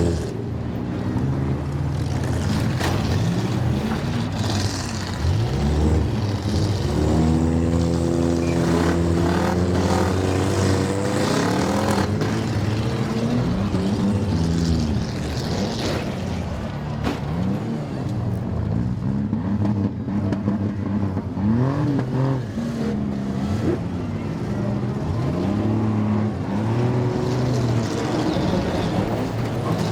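Several demolition derby car engines revving and running at once, their pitch rising and falling, with scattered metal-on-metal crashes and bangs.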